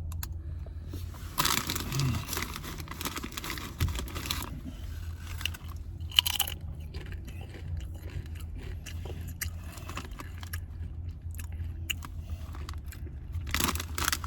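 Crunching and chewing of spicy queso chips close to the microphone, densest in the first few seconds with scattered crunches after, over a steady low hum of the car.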